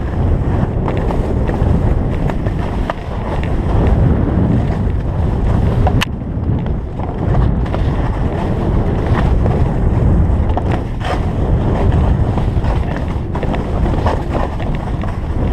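Wind rushing over the microphone of a camera carried by a skier going downhill, a steady low rumble mixed with the hiss of skis sliding on snow. There is one sharp click about six seconds in.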